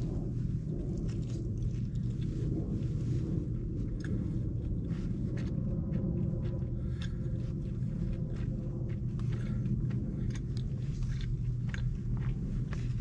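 A person chewing food, with many small clicks and scrapes of a plastic fork in a plastic takeout bowl, over a steady low rumble inside a car's cabin.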